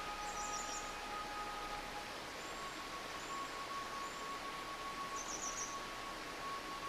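Steady rush of a forest stream with small birds chirping: a quick high trill just after the start and again about five seconds in, with a few thin short calls between.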